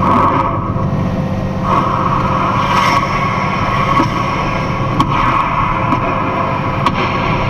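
Box truck cab noise while driving: a steady low drone of engine and road noise, with a constant hiss on top.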